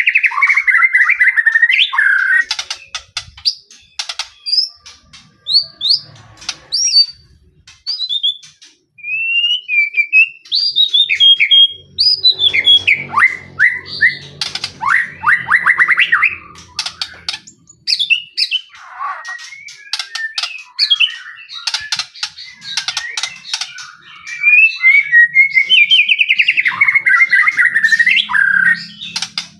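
White-rumped shama singing a loud, varied song of whistled phrases, rapid trills and sharp clicking notes, with short pauses between phrases.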